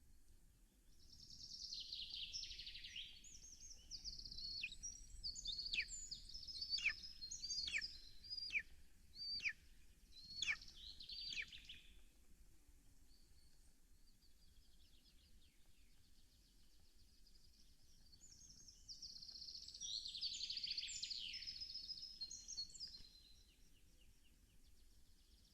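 A small songbird singing in two bouts. The first is a fast, high trill that ends in a run of sharp downward-sweeping notes; the second is a shorter trill about three-quarters of the way through.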